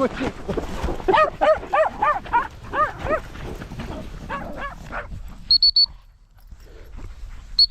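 A dog whining and yelping in a quick run of short, rising-and-falling cries, about three a second, dying away after about three seconds with a few fainter ones later. Near the middle and again at the end come three quick, high-pitched pips.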